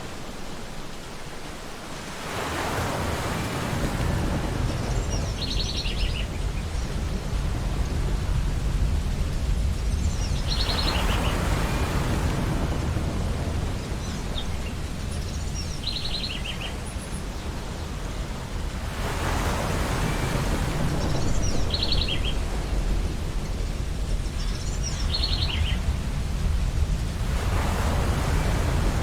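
Ocean waves breaking on a beach about every eight seconds, four times, each swell rising into a wash over a constant low surf rumble. Short bursts of rapid chirping bird calls come between the breakers.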